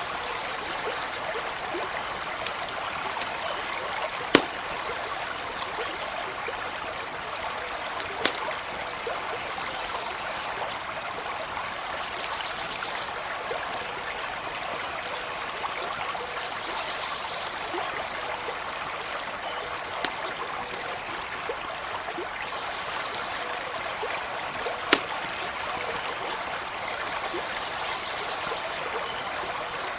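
Small stream running steadily over stones, with a few sharp pops from a crackling campfire scattered through it.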